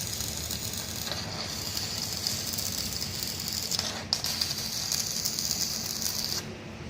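Electric arc welding: a steady crackling hiss from the arc, broken off briefly about four seconds in and stopping shortly before the end.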